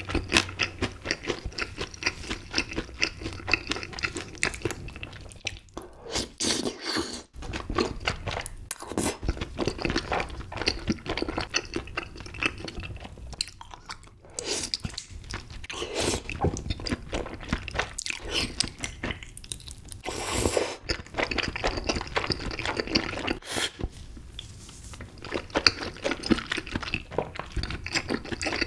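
Close-miked eating sounds: chewing and biting, crunchy in places, as spicy tteokbokki rice cakes with melted cheese are taken in with chopsticks and chewed. The chewing runs on with short pauses.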